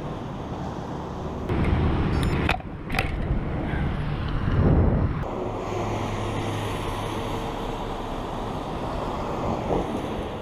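Mountain bike ridden over rough ground: wind buffeting the microphone, tyre noise and rattling from the bike, with a couple of sharp clacks about three seconds in.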